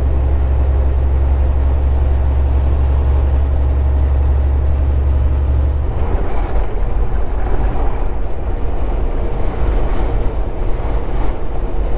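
Volvo 780 semi truck's engine and road noise while driving on the highway: a steady low drone that becomes rougher and less even about halfway through.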